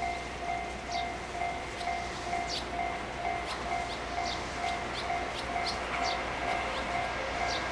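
Railway warning bell ringing in an even, rapid string of dings, signalling an approaching train. Small birds chirp briefly over it.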